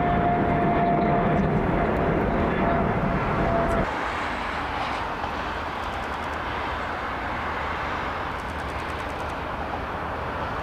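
Jet airliner engines running loud and steady, with a high steady whine over the roar. About four seconds in it breaks off abruptly to a quieter, steady jet rumble.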